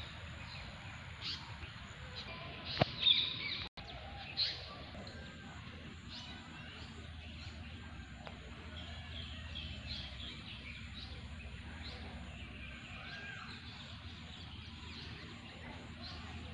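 Outdoor ambience of birds chirping and calling on and off over a steady low background noise, with a few louder sharp sounds about three seconds in.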